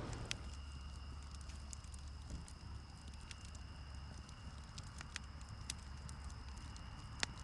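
Wood campfire crackling, with scattered sharp pops and clicks at irregular intervals over a low rumble. Two steady high-pitched tones run underneath.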